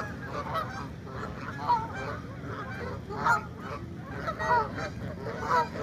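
A flock of birds calling over one another, many short pitched calls overlapping, with louder single calls standing out about every second.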